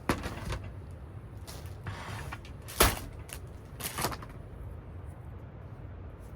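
A few sharp knocks and clatters, the loudest about three seconds in, with some rustling between them, over a low steady rumble.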